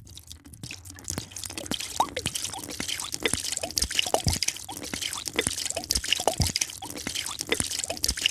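Liquid being poured into a drinking vessel: an irregular run of small drips and bubbly plinks, each plink a quick rise in pitch, over a light splashing hiss.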